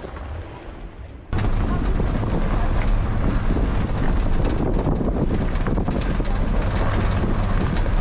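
Pickup truck driving on a rough dirt road: engine running under steady loud road noise with gravel rattle from the tyres. The noise cuts in suddenly about a second in.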